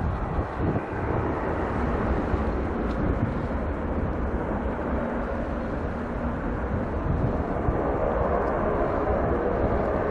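Turboprop airliner's engines and propellers running, a steady noise that grows slightly louder toward the end.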